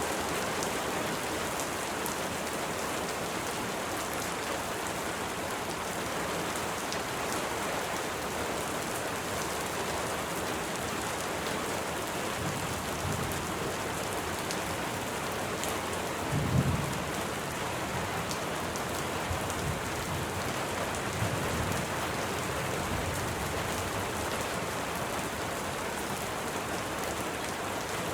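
Steady rain falling, an even hiss, with a low roll of thunder about halfway through that swells to one sharp peak and dies away over several seconds.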